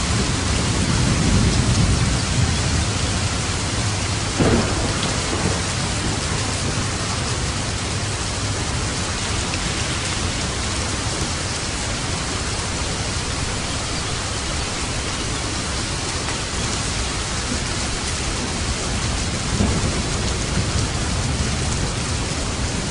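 Steady heavy rain on a roof with thunder: a low rumble in the first couple of seconds, a sharp crack about four and a half seconds in, and a smaller one near the end.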